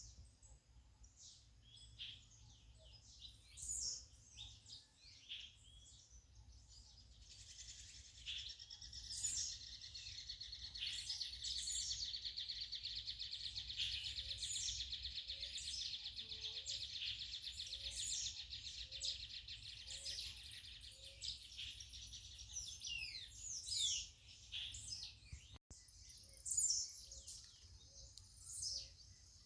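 Several birds chirping and calling, many short notes overlapping. A long, even, high buzzing trill runs from about seven seconds in to about twenty-three seconds in.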